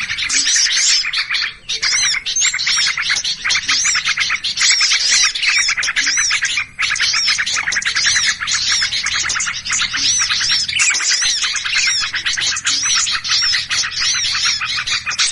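Many small birds calling together in a dense, continuous chatter of rapid overlapping chirps and arching whistled notes. It is an agitated, noisy-flock lure recording (pikat burung ribut) of the kind played to draw small birds in.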